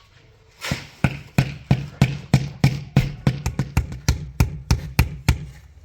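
A run of sharp, loud knocks, about three a second and a little uneven, starting just under a second in, each with a dull low thud.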